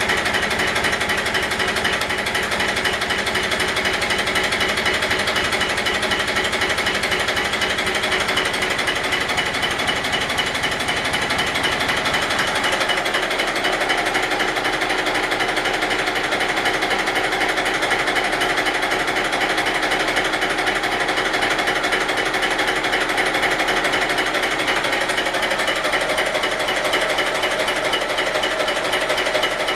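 A Yamaha YDX28 boat's engine running steadily with a fast, even mechanical rattle.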